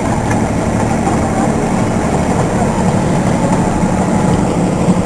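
Engine of a miniature ride-on train running steadily while it pulls along, a low, even hum.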